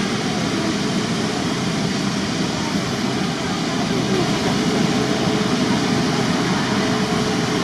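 Steady jet engine noise from an airliner on or near the runway, a loud even rush with no breaks, with faint voices of people in the background.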